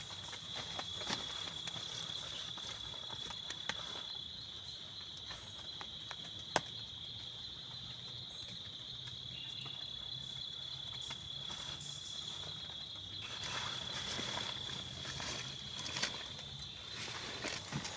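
Steady, high-pitched insect trill, like crickets, with scattered small clicks and some rustling.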